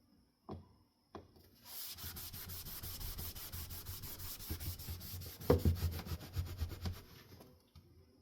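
Rapid back-and-forth scrubbing on a wooden-veneer ceiling fan blade, working at a patch of paint, for about five seconds. A couple of light clicks come before it starts, and there is a louder knock about five and a half seconds in.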